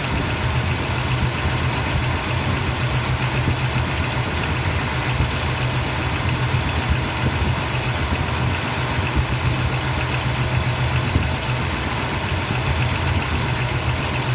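Ford 302 V8 in a 1962 Falcon idling steadily, with a constant low hum under an even hiss.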